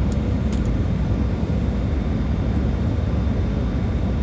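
Boeing 737-800 with CFM56-7B turbofan engines, a steady low jet rumble and rush of air during the landing approach.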